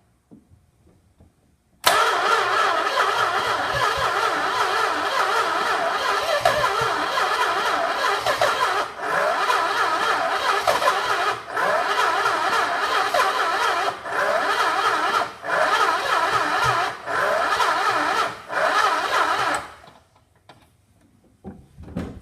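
Starter motor cranking a 1967 Chrysler Newport's V8 in long bursts with several brief breaks, the engine never catching: a no-start. The cranking comes in suddenly about two seconds in and stops near the end.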